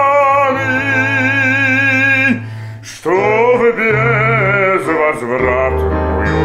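A man singing a Russian romance with instrumental accompaniment, holding a long note with vibrato, breaking off briefly about two and a half seconds in, then going on with the next phrase over sustained low accompaniment notes.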